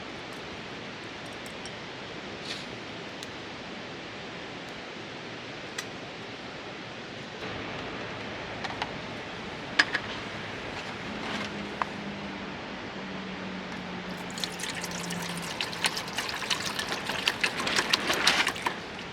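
Water pouring and splashing, building up over the last few seconds and then stopping abruptly, over a steady rushing background.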